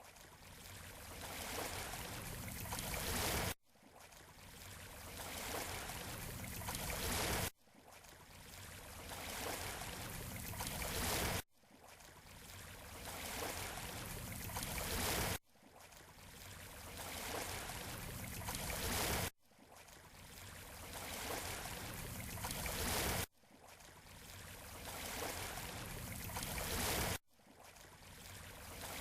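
Surf washing on a beach, from a short recording looped about every four seconds. Each pass swells steadily, then cuts off abruptly before the next begins.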